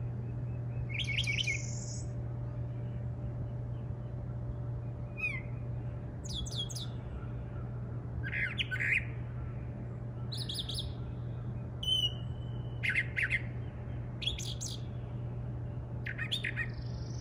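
A bird giving short, high calls, a quick cluster every second or two, over a steady low hum.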